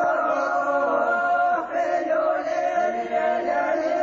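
Background music: a choir singing long held notes in a chant-like style.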